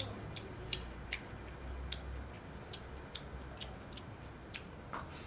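Eating sounds from a man eating a rice dish: a string of light, sharp clicks, two or three a second, over a faint low hum.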